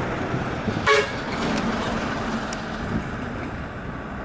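A heavily loaded truck's engine running on a hill climb, with one short horn toot about a second in.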